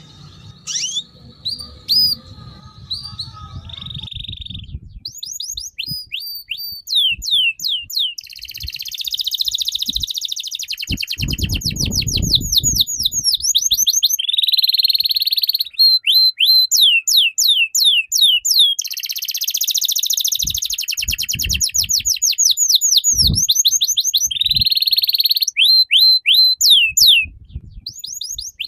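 A songbird singing continuously: fast strings of sharp, downward-sweeping whistled notes, broken by long buzzy trills.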